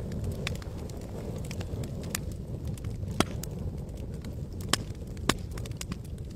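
Wood campfire crackling: irregular sharp pops and snaps over a steady low rumble of burning. The loudest pops come about three seconds in and twice around five seconds.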